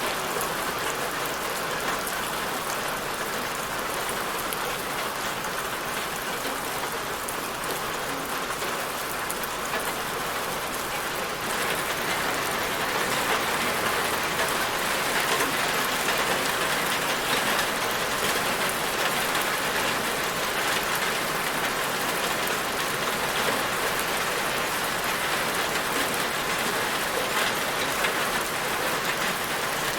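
Steady rain falling on a surface, a dense even patter of drops that gets a little louder about twelve seconds in.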